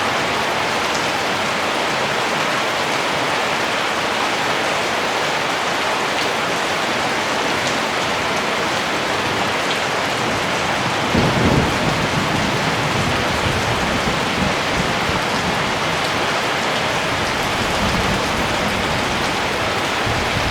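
Steady rain falling, with a low rumble of thunder coming in about halfway through and carrying on more faintly.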